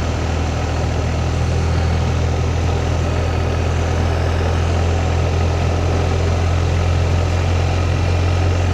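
Motorcycle engine running steadily at an unchanging pitch, with a constant rush of noise over it.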